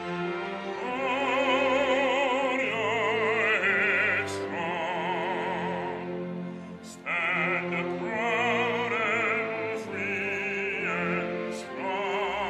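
Operatic singing with strong vibrato over instrumental accompaniment, in long held phrases with short breaks between them.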